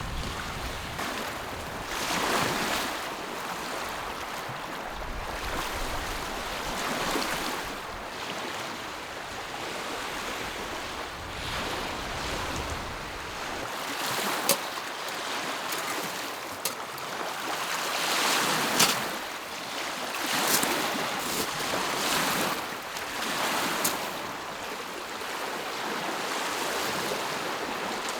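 Small lake waves washing onto the shore, swelling every couple of seconds, with a few sharp splashes in the second half. A low rumble under them stops about halfway.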